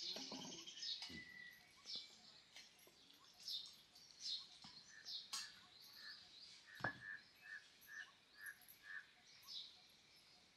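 Faint bird chirping, with one bird repeating a short note about twice a second for several seconds in the second half. A few soft knocks, the sharpest about seven seconds in, as the stone grinding roller and steel vessels are handled.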